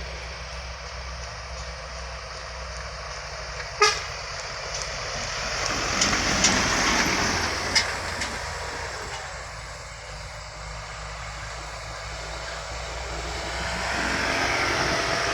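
Heavy trucks passing on a road. Their engine noise swells as one goes by, then builds again as another approaches near the end. A short, sharp, loud blast, likely a brief horn toot, comes about four seconds in.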